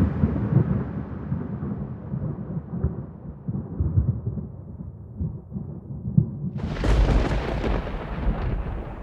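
Thunder: a rolling rumble dies away over the first six seconds or so. Then a new, sharp thunderclap cracks suddenly about two-thirds of the way in and breaks into a deep, heavy rumble.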